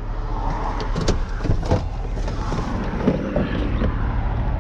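A vehicle engine running steadily, with a few short, sharp knocks over it.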